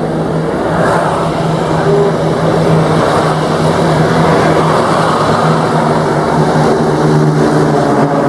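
Piston propeller engines of Beech G36 Bonanza light aircraft droning steadily, a continuous hum with a noisy rush of propeller and air, the tone growing stronger near the end.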